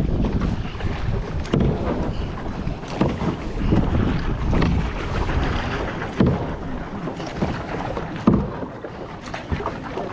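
Kayak paddle strokes swishing and splashing in the water at an irregular pace, with wind rumbling on the microphone and two sharper splashes or knocks in the second half.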